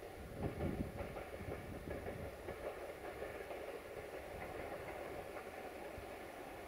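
Distant diesel multiple unit running along the yard tracks: a steady rumble of engine and wheels, with a few low bumps about half a second in.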